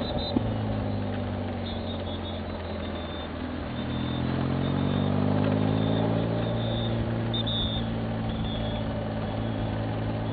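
A vehicle engine running steadily, its pitch rising about four seconds in and then holding.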